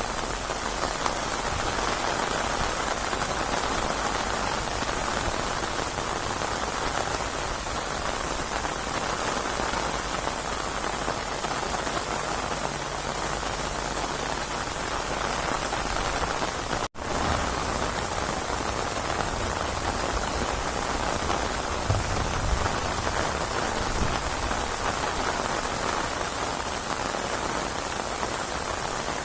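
Steady rainstorm: dense rain falling on surfaces in an even hiss, with a low rumble underneath. The sound cuts out for an instant about two thirds of the way through, then carries on unchanged.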